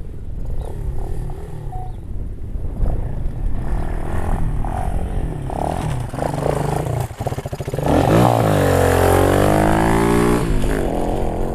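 Pit bike engine working unevenly at low revs, then revving hard for about two and a half seconds from about eight seconds in as the bike climbs a sandy slope under load, before the revs drop off.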